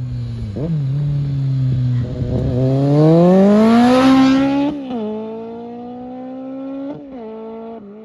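2008 Kawasaki Concourse 14's inline-four engine under hard acceleration: the engine note climbs steadily for a couple of seconds, then drops sharply at an upshift about four and a half seconds in, with another quick shift near the end.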